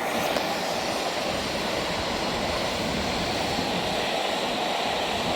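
Freight train hauled by a Class 66 diesel passing through at speed: a steady rushing noise of the wagons' wheels on the rails.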